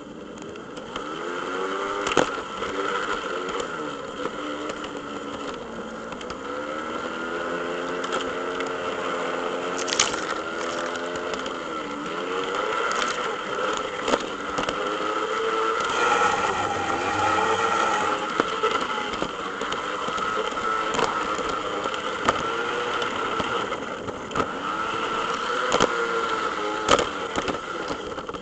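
Scale model train running on a garden railway: a whine that rises and falls in pitch, with sharp clicks now and then.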